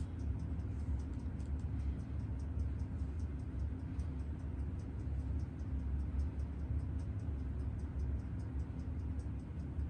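Faint, even, rapid ticking, about four to five ticks a second, over a steady low hum, from a rate tester timing a Seiko 7548 quartz watch movement after its rate adjustment.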